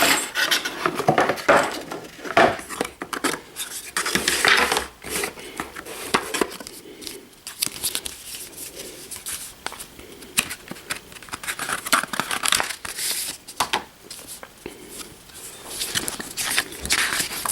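Box packaging being handled and unpacked: irregular crinkling, rustling and scraping of paper, cardboard and plastic.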